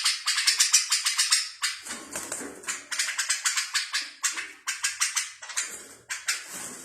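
Songbird singing rapid runs of dry clicking notes, about ten a second, broken by short pauses.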